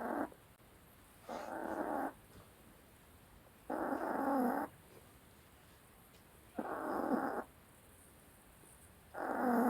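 Dog snoring in its sleep, a drawn-out snore of wavering pitch every two and a half seconds or so, each lasting under a second.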